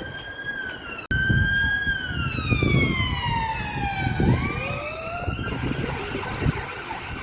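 An emergency vehicle's siren wailing: one tone slides slowly down in pitch over about two seconds, rises again and fades out about five and a half seconds in, over a low rumble of street traffic.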